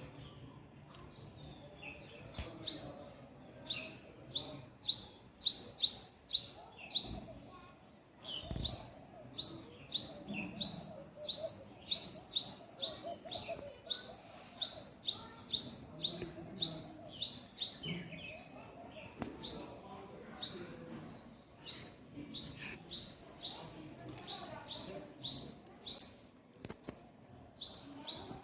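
A small bird calling a long series of short, high chirps, about two or three a second, broken by a few brief pauses.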